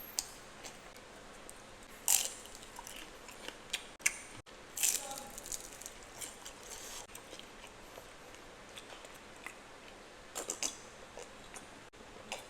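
A person biting and chewing crunchy food close to the microphone: irregular crisp crunches, with louder bites about two seconds in, about five seconds in and twice about ten seconds in.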